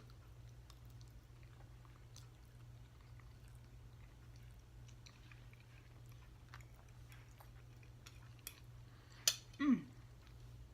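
Faint chewing of spaghetti close to the microphone, with small mouth clicks. A short voice sound falling in pitch comes about nine seconds in.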